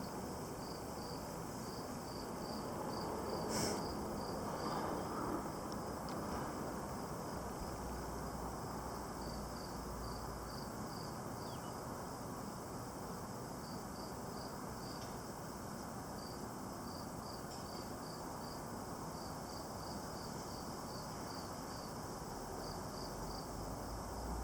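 Insects chirping in a steady, regular rhythm of short high pulses over a faint steady outdoor hiss.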